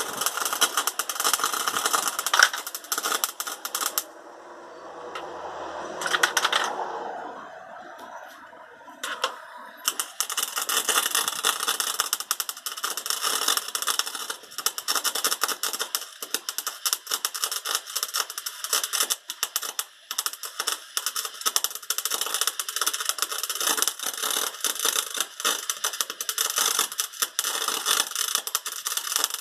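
Electric welding arc crackling in long runs of rapid, irregular clicks, stopping for several seconds about four seconds in before the welding resumes and continues steadily.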